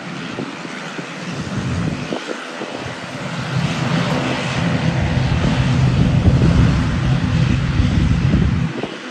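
ATR 42 turboprop taxiing, its twin engines and propellers giving a steady droning hum over a rushing hiss. The sound grows louder toward the middle and drops away shortly before the end.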